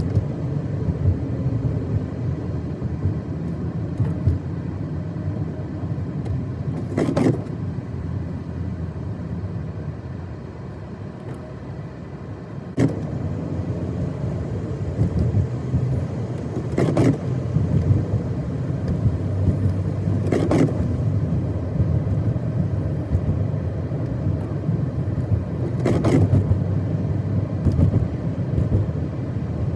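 A car driving on a snow-covered road without snow tyres: a steady low rumble of engine and tyres, with a few short knocks spaced several seconds apart.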